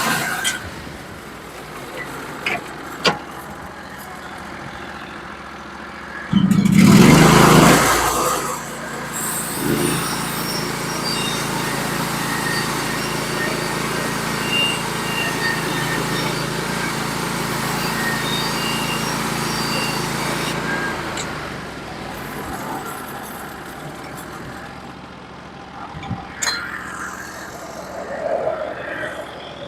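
Norwood HD36v2 portable band sawmill running: its engine runs steadily, surges loudly about six seconds in, then holds a louder steady pitch with a hiss for about twelve seconds as the band blade cuts through the cant, before dropping back to a quieter steady run.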